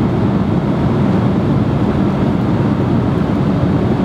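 Steady, deep cabin noise of an airliner in flight, the engines and rushing air heard from inside the passenger cabin.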